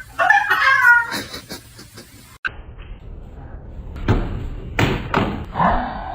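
A cat meowing in drawn-out, wavering cries during the first second. After a sudden cut, a few knocks and thumps follow, with another short cry near the end.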